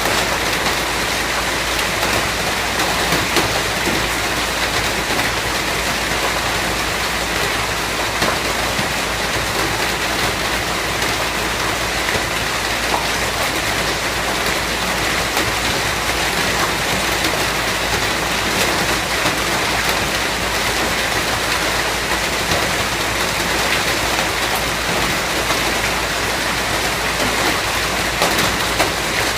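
Steady rain falling, an even dense hiss with many small drop ticks, holding level throughout.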